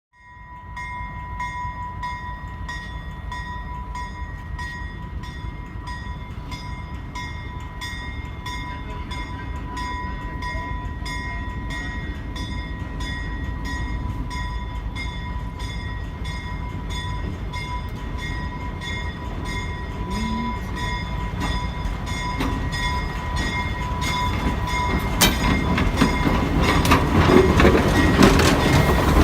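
Alco S-6 diesel switcher locomotive running and growing steadily louder as it approaches, with a steady ringing that pulses evenly throughout. Near the end come sharp clanks and knocks from the rolling equipment.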